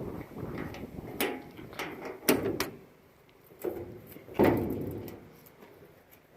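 Knocks and clanks of a 1944 Ford GPW jeep's hood being unlatched and lifted open: several sharp knocks, the loudest about four and a half seconds in, ringing briefly.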